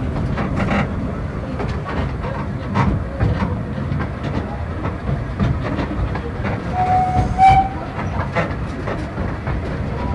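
Narrow-gauge railway carriage running along the track, a steady low rumble with irregular clicks of the wheels over the rail joints. A brief high tone sounds about seven seconds in.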